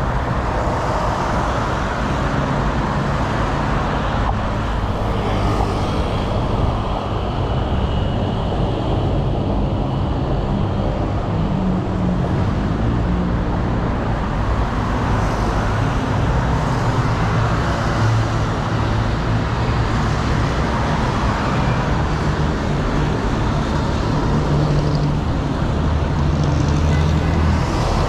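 Steady city road traffic heard from a bicycle: vehicle engines running and tyres on the road, with no single loud event.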